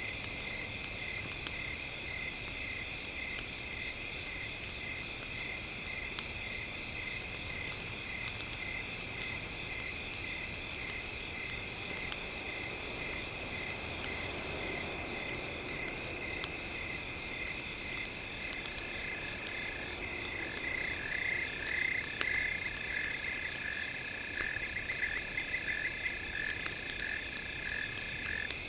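Night chorus of crickets and other insects trilling steadily, with frogs joining in a rapid, pulsing croak from a little past the halfway point, and faint scattered crackles of a campfire underneath.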